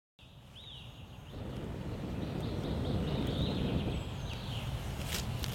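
Outdoor ambience fading in from silence: a steady low rumble with a few short bird chirps over it.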